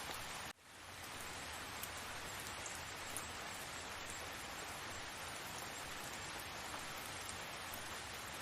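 Steady rain falling, an even hiss with faint scattered drop ticks. The rain cuts out suddenly about half a second in and fades back up within half a second, like a loop seam in the recording.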